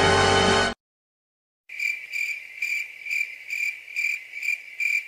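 Crickets chirping, the stock comedy sound effect for an awkward silence: a high, even chirp pulsing about twice a second. Under a second in, a music clip cuts off, followed by a second of silence before the chirping starts.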